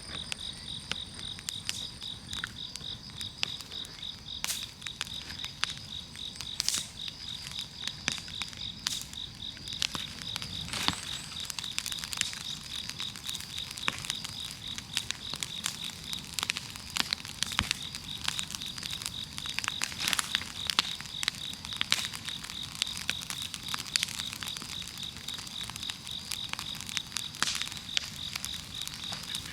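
Large wood bonfire crackling, with irregular sharp snaps and pops of burning logs. An insect trills steadily behind it in a fast, even pulse.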